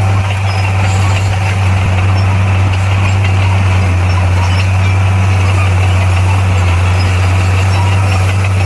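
Diesel engine of heavy earthmoving equipment running steadily with a low, even drone.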